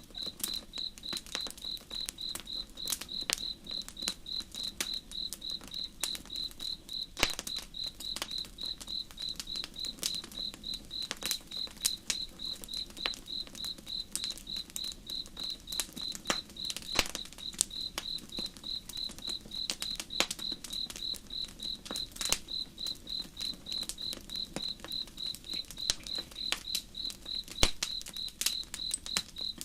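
A cricket chirping steadily at about three chirps a second, with a campfire crackling in irregular sharp pops and snaps that are the loudest sounds.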